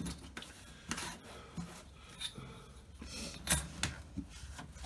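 Hands working sellotape and a carbon fibre rod onto a foam model wing on a workbench: scattered rubbing, rustling and light taps, the sharpest tap about three and a half seconds in.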